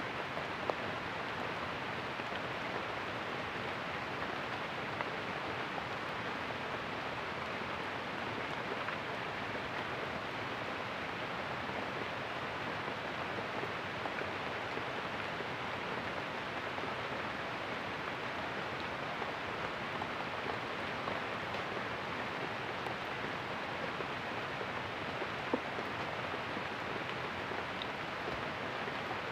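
Heavy rain falling steadily, a constant even hiss with a few isolated sharp ticks of drops or knocks.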